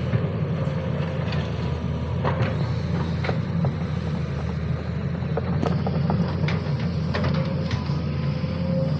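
Sany SY215C hydraulic excavator's diesel engine running steadily, with scattered knocks and clanks from the working machine.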